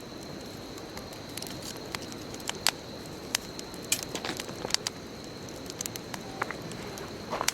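Wood bonfire burning, with irregular sharp crackles and pops over a low, steady rush of the flames. A thin, steady high tone runs underneath.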